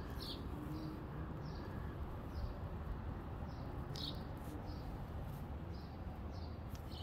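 A bird chirping repeatedly, short high notes about once or twice a second, over a steady low rumble.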